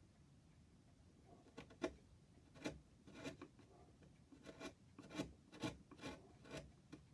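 Short hand strokes of something rubbing or rasping on wood, about a dozen in uneven groups roughly half a second apart.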